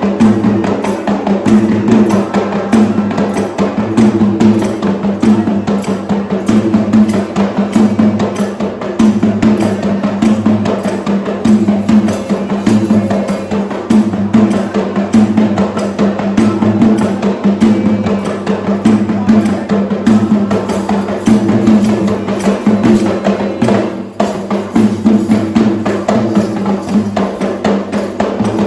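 Traditional Sri Lankan drums played as an ensemble in a fast, dense, unbroken rhythm, with sharp wood-like strokes over a strong low drum tone, dipping briefly about four-fifths of the way through.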